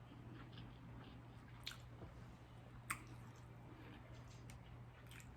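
Faint chewing and wet mouth sounds while eating, with a few soft clicks, over a low steady hum.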